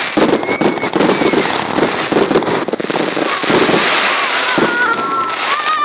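Fireworks salute going off in a dense, continuous barrage of bangs and crackles, with a few thin whistling tones over it.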